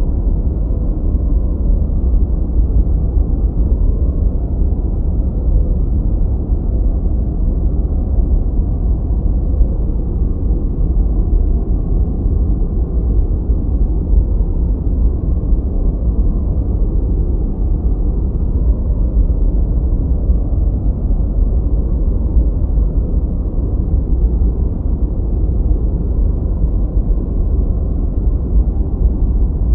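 Continuous steady noise played as a white-noise track, deep and muffled rather than hissy, with no high end. It holds level throughout, with no change or break.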